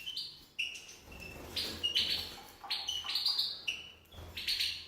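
Hen European goldfinch peeping: short, high chirps repeated in quick clusters of several calls.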